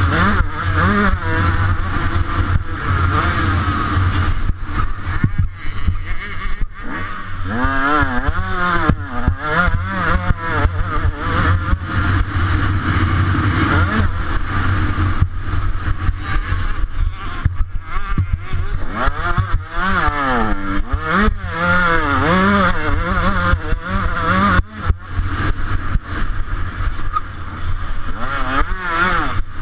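125cc two-stroke motocross bike racing, heard close up from the rider's camera, its engine revving up and down over and over as the throttle opens and closes, with a few brief drops in sound.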